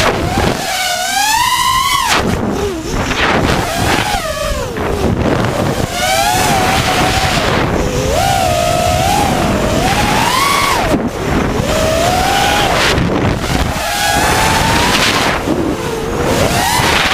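A small engine revving up and down again and again as it is ridden hard, its pitch rising and falling every second or two. Heavy wind buffeting on the microphone runs underneath.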